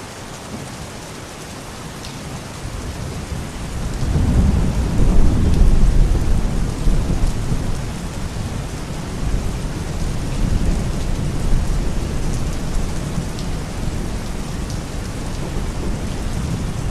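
Steady rain falling, with a long rolling rumble of thunder that swells about four seconds in, is loudest for a couple of seconds, and then trails off slowly under the rain.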